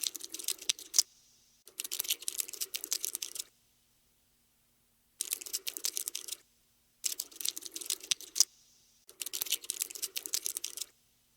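Cockroach scuttling sound effect: bursts of rapid, dry skittering clicks, about five in all, each lasting one to two seconds and stopping dead between runs.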